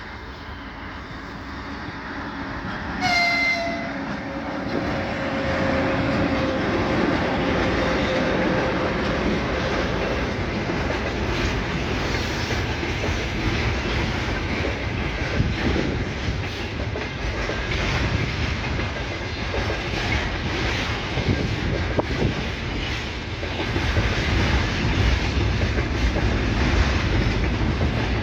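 Train horn sounds once briefly about three seconds in. A train then approaches and runs past, its wheels clattering over the rail joints, getting louder toward the end.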